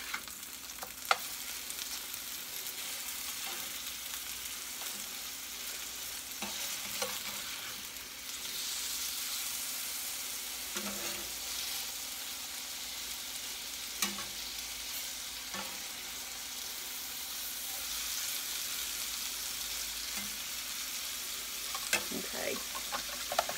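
Chicken pieces frying in oil in a skillet, a steady sizzle, with a few sharp clicks as the pieces are turned in the pan.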